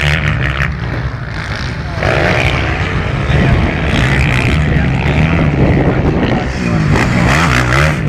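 Motocross bikes racing, their engines revving up and down over and over as they work through the gears.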